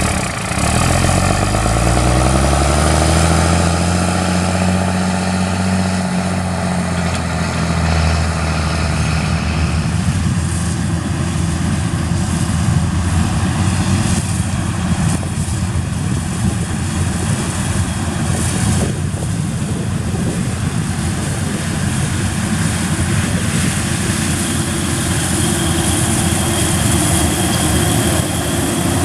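Combine harvester's engine revving up over the first few seconds, then running steadily at working speed with a constant mechanical din.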